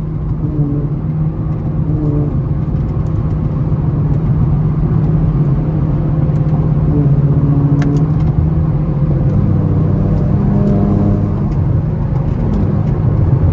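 Car engine and road noise at highway speed: a steady low drone that grows slightly louder, with its pitch shifting about nine seconds in.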